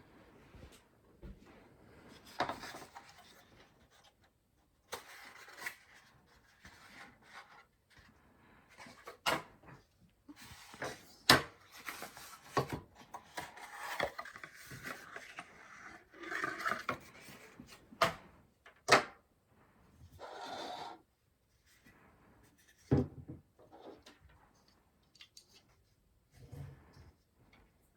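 Hardware being handled while an Arctic Freezer 36 CPU air cooler is fitted: intermittent rubbing and scraping, broken by several sharp clicks, the loudest about eleven seconds in.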